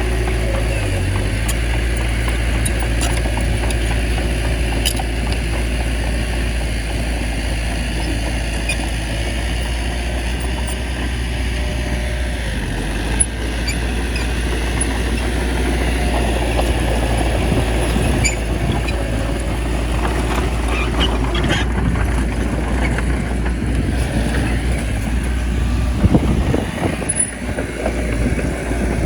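Small bulldozer's diesel engine running steadily while it works, with a few faint clicks over the low rumble. Near the end the rumble drops away and the sound turns uneven.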